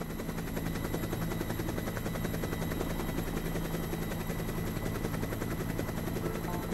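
Helicopter running, its rotor beating in a fast, steady chop over a low drone, with a thin steady high whine.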